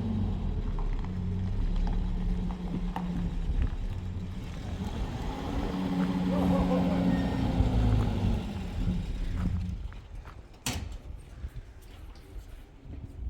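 Motor vehicle engine running, its low pitch rising and falling, then dying away about ten seconds in; a single sharp knock follows about a second later.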